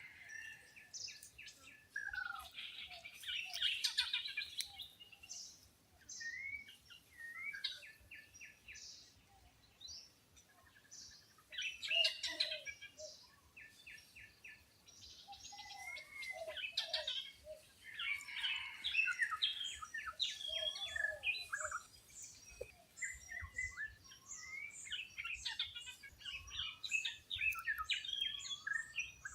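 A mixed chorus of wild birds chirping and calling, with many short overlapping notes that come in busy waves separated by quieter gaps.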